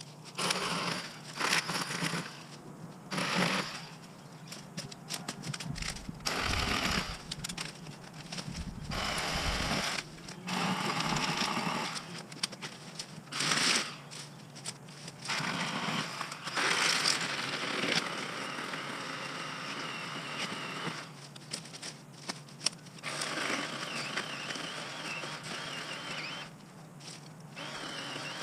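Ryobi 40-volt battery chainsaw running in repeated bursts as it cuts through brush and small trees, with short pauses between cuts. The longer cuts carry a steady high whine.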